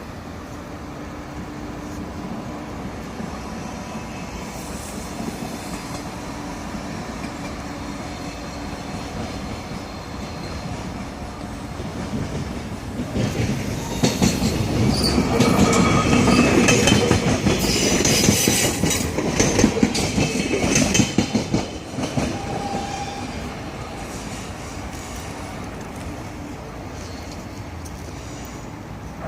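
A train passing by: a low rumble builds up, then wheels click over the rail joints with high-pitched wheel squeal for several seconds before it fades away.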